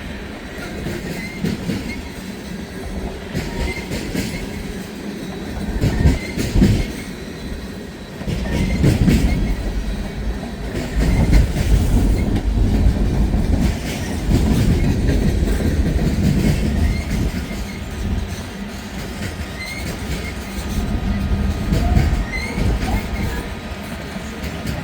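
Freight train cars rolling past at close range, wheels clattering over the rail joints, with brief wheel squeals now and then.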